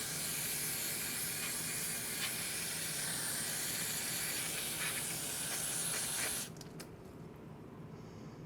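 Aerosol carburetor cleaner spraying in one long, steady hiss onto a lawnmower carburetor's float bowl, cutting off about six and a half seconds in.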